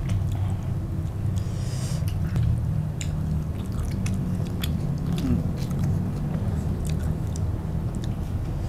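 Close-up eating sounds: biting and chewing raw leafy greens and roast chicken, with scattered wet mouth clicks and crunches over a steady low hum.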